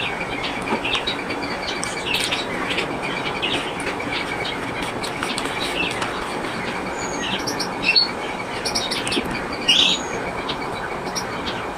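Gouldian finches chirping in short, high calls, with two louder calls about eight and ten seconds in, over a steady hiss of background noise.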